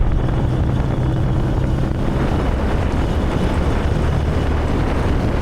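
Diesel Jeep Gladiator driving along a dirt road: engine rumble and tyre noise, with wind buffeting the microphone.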